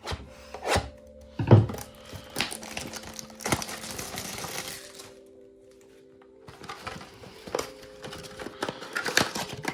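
A foil trading-card pack wrapper crinkling and being torn open, with a longer rustle about three and a half seconds in, over soft background music with held notes.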